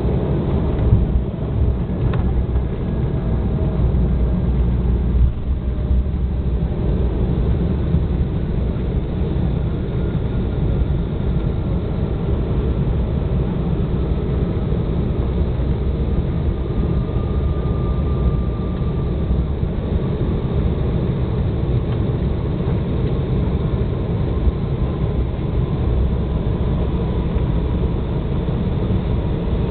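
Cabin noise inside an Embraer 195 jet: a steady low rumble of airflow and its GE CF34 turbofans, with a faint engine whine slowly falling in pitch.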